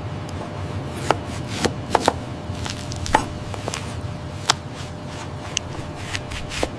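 Irregular sharp clicks and knocks, about a dozen in all, over a steady low rumble and a faint steady tone.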